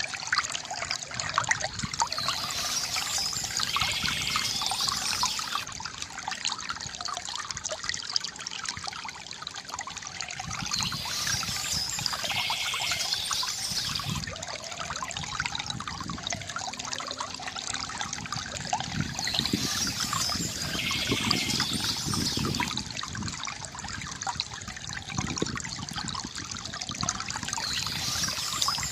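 River water gurgling and trickling steadily, with bursts of birds chirping that come back about every eight seconds.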